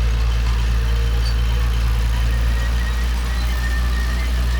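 Heavy diesel engine of construction machinery running steadily with a low, even rumble.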